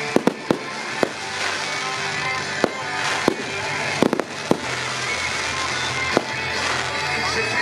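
Fireworks shells bursting with sharp bangs: a quick run of them at the start, single ones about a second apart, and a cluster around four seconds in, over music played through loudspeakers.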